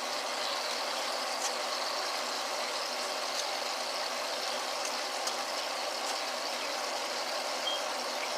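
Ribs frying in oil in a pan: a steady sizzle with a few faint pops.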